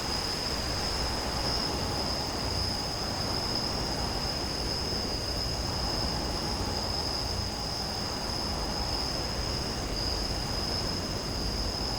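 Nature-sound background of crickets chirring in a continuous high band over a steady, even hiss.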